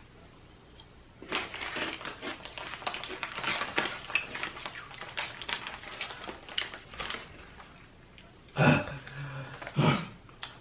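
Dry, irregular crackling and crunching of chips being eaten. Near the end come two short, heavy breaths with a brief low hum between them.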